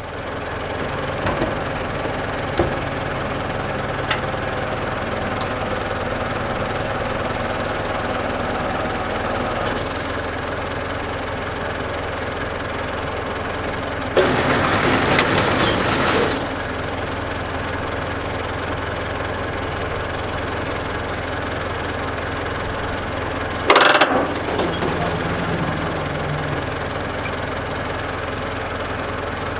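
Farm tractor engine running steadily while baling hay with a round baler. A louder rushing burst lasts about two seconds around the middle, and a short, sharp loud burst comes about ten seconds later.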